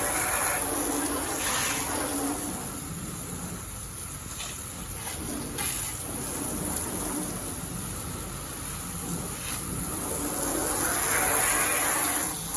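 Garden hose spraying water onto a car to rinse off the soap, a steady hiss that swells louder near the end.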